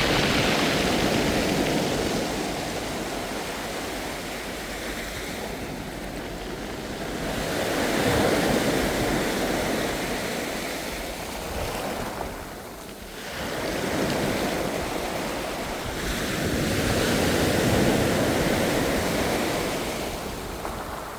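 Ocean waves breaking and washing ashore, the surf swelling and falling away every several seconds, with a short lull about two-thirds through.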